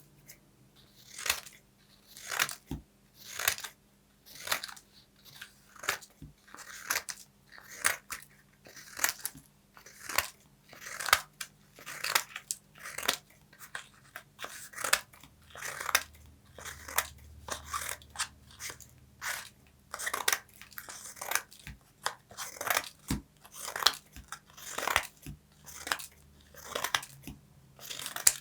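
Crisp, crunchy paper sounds in a steady series of short strokes, roughly one to two a second.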